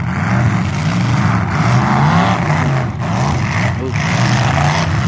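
Full-size demolition derby cars' engines running and revving. The engine pitch rises and falls continuously.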